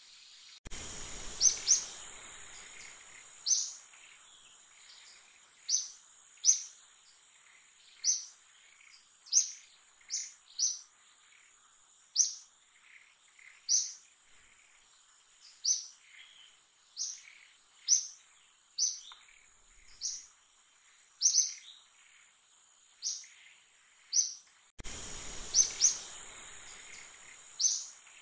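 A bird calling over and over with short, high, falling chirps, roughly one a second, over a steady high insect drone.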